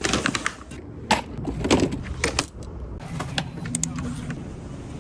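A run of sharp clicks, rustles and light clatter of things being handled, thickest in the first three and a half seconds, over a steady low hum.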